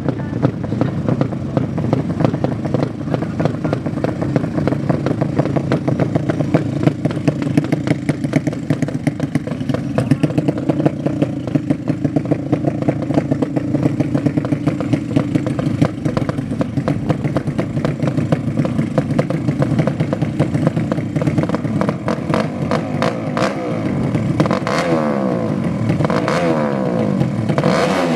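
Drag-race motorcycle engines running loudly with a rapid, crackling exhaust. Near the end an engine revs up repeatedly with rising pitch.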